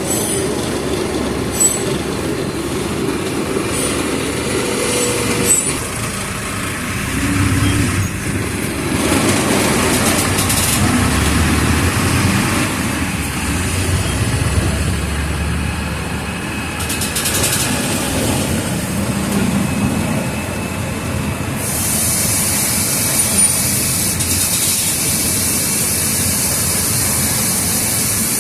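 Mercedes-Benz OF 1722M city bus's four-cylinder diesel engine running as the bus drives, pulling harder and easing off in turn, with short hisses of air. A steady high hiss joins in about three-quarters of the way through.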